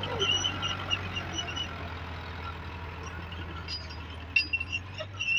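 Tractor diesel engine running steadily, with a few sharp clinks about four seconds in.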